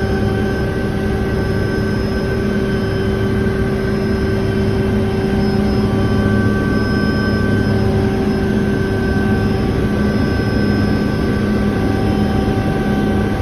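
Small helicopter's engine and rotors running steadily in flight, with a constant whine of several fixed tones over the noise.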